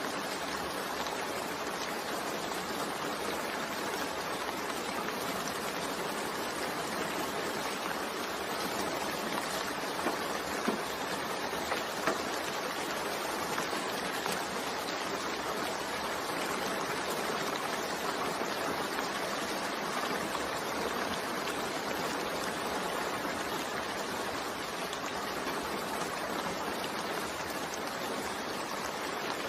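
Steady rain, an even hiss without a break, with a few slightly louder drop ticks about ten to twelve seconds in.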